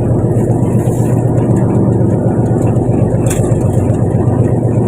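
Fishing boat's engine running steadily with a deep, even drone; a single short click about three seconds in.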